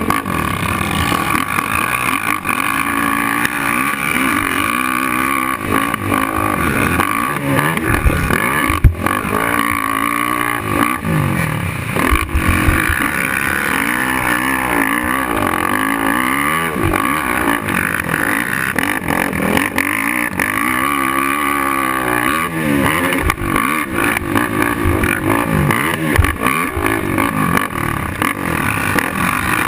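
Racing quad's single-cylinder four-stroke engine revving up and easing off again and again as it is ridden hard. A sharp knock comes about nine seconds in.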